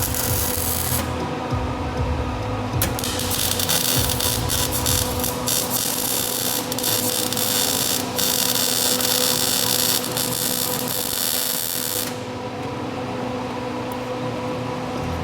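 Electric welding arc crackling and sizzling in two runs: a short one of about a second, then a longer one of about nine seconds that stops short near the end. A steady hum runs underneath the whole time.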